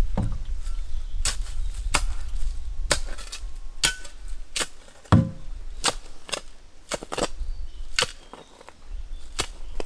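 A hand tool striking again and again, one or two sharp knocks a second at an uneven pace, the loudest about halfway through, over a low rumble.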